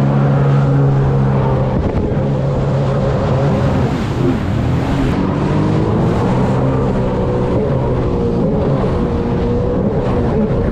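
Sea-Doo 170 jet ski engine running at speed on the water, its pitch wavering with the throttle and dipping briefly about four seconds in, with wind buffeting the microphone.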